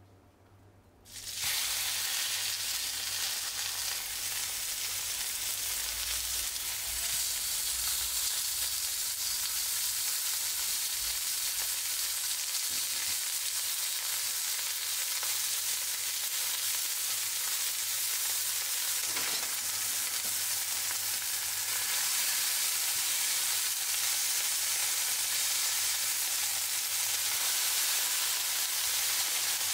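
Raw burger patties frying in hot oil in a non-stick frying pan: a steady, loud sizzle that starts suddenly about a second in.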